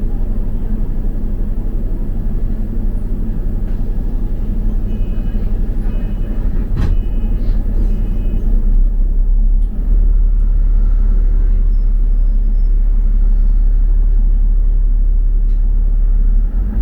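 A London double-decker bus running, with a steady low engine and road rumble. A few short high beeps come about a third of the way in, with a click near the middle.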